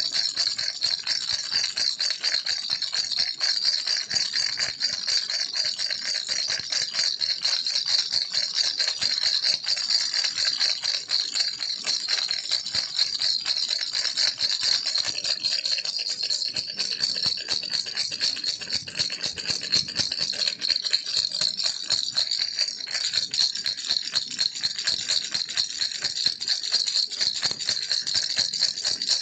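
Baby rattle shaken without pause: a dense, fast, even rattling with a bright, high-pitched edge.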